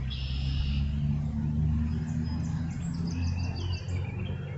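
Small birds chirping and chattering in short high calls, over a steady low rumble like a vehicle engine, which is the louder sound.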